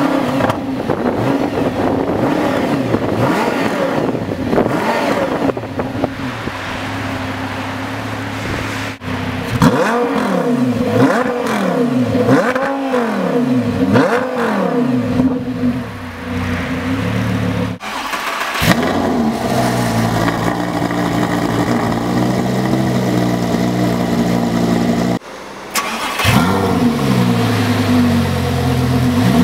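Audi R8 V10 Spyder's V10 engine through an Akrapovič exhaust, revved again and again in quick rising-and-falling sweeps, with stretches of steadier running in between. The sound breaks off abruptly several times where clips are cut together.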